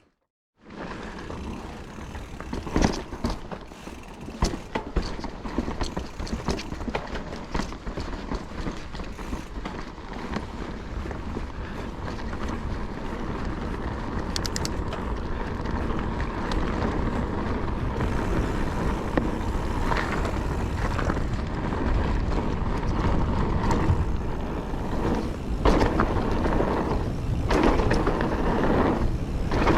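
Calibre Triple B mountain bike ridden along a dry, loose trail: tyre noise over the ground with frequent clicks, knocks and rattles from the bike. The noise builds steadily as the speed picks up.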